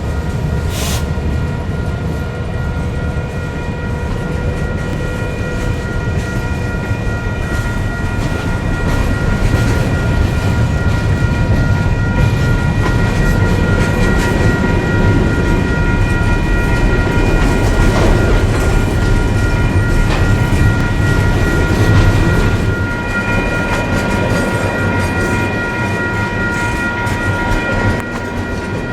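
Freight train moving past, led by a Canadian Pacific GP20C-ECO diesel locomotive. A deep rumble swells through the middle and eases near the end, with several steady high tones held throughout.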